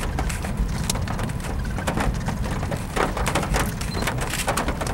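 Rain and wind near a tornado: an irregular patter of drops hitting close by, over a steady low wind rumble.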